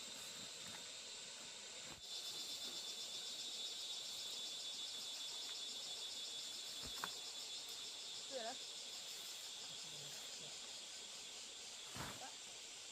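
Insects trilling steadily, with a high, fast pulsing trill joining in about two seconds in. There are two faint knocks, one past the middle and one near the end.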